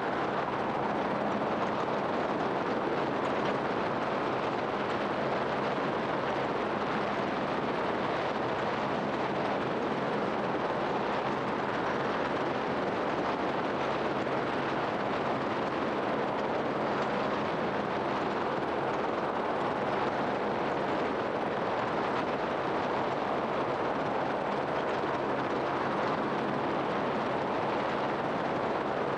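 Steady, unvarying vehicle engine drone mixed with rushing air, with a low hum underneath and no change in level.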